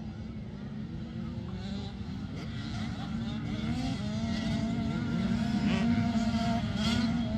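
85cc two-stroke motocross bikes racing, their engines holding a high buzz with several overlapping pitches and growing steadily louder as they approach.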